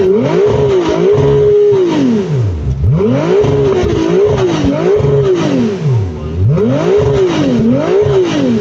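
A car engine revved hard from idle in quick repeated blips: three groups of two or three revs, the pitch climbing and falling with each. It drops briefly back toward idle between groups and settles to idle near the end.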